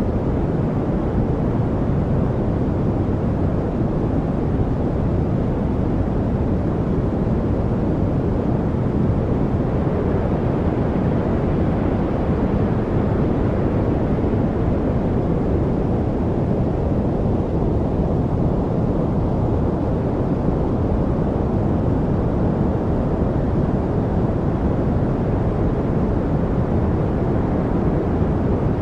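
Steady, even noise, deep and rumbling with little high hiss, that does not change: a study noise track of the white-noise kind.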